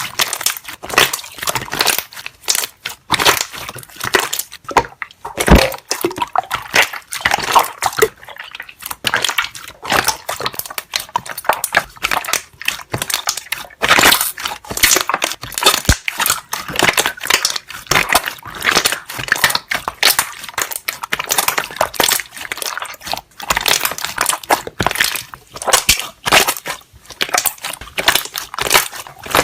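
Slime being pressed and squished, with dense, irregular crackling pops of trapped air bubbles bursting, several a second with no pause.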